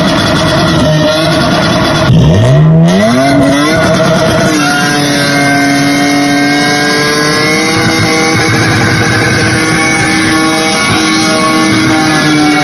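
Lexus IS200's straight-six engine, loud, revving: the note drops out briefly about two seconds in, climbs steeply, then holds at high, steady revs.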